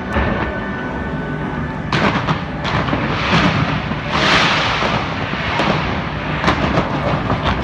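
Aerial fireworks going off in quick succession: a run of sharp bangs, with a longer crackling burst about four seconds in.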